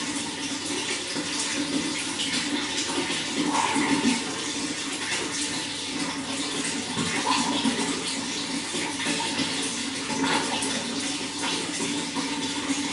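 Running water flowing steadily, with small gurgles now and then.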